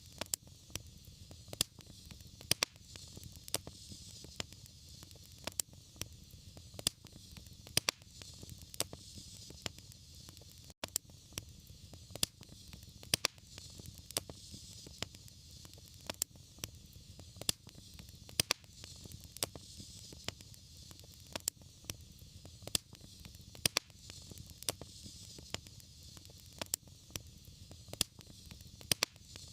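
Fireplace fire crackling, with frequent sharp irregular pops over a steady hiss and low rumble, broken by a momentary gap about eleven seconds in.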